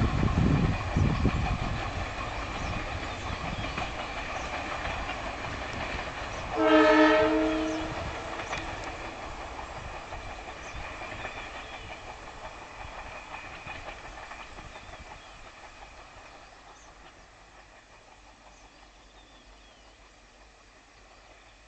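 Passenger train running away along the track, the sound of its wheels on the rails fading steadily into the distance, with one locomotive horn blast about seven seconds in, lasting about a second.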